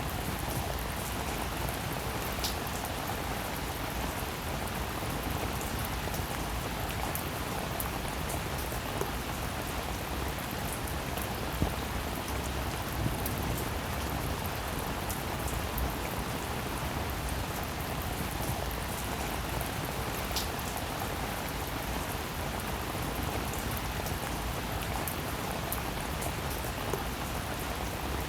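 Steady rainfall, an even hiss of many drops, with a few sharper single drop taps standing out now and then.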